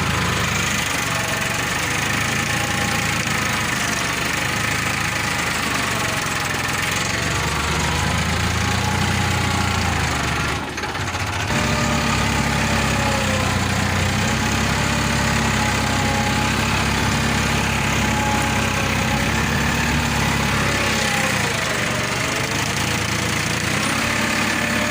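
Farmtrac 45 EPI tractor's three-cylinder diesel engine running steadily while pulling an 11-tine cultivator, its pitch wavering slightly, with a brief dip in level about eleven seconds in.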